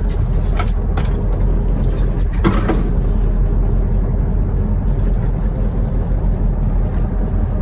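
Charter fishing boat's engine running steadily, a continuous low rumble, with a few brief clicks or knocks in the first three seconds.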